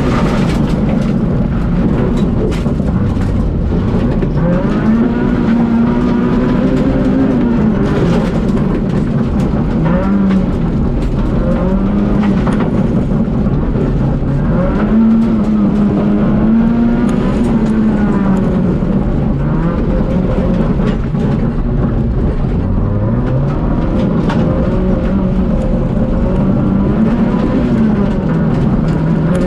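Citroën Saxo VTS rally car's four-cylinder engine driven hard through a rallycross stage. The engine note climbs under acceleration and drops when the driver lifts for corners, several times over, with a steady rush of tyre and surface noise underneath.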